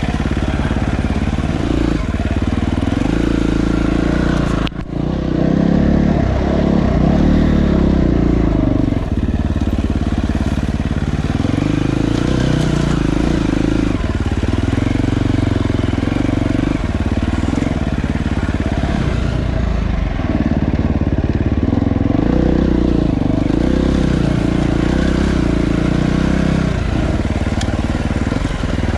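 Dirt bike engine running on the move, its pitch rising and falling with the throttle, with a brief sharp drop in sound about five seconds in.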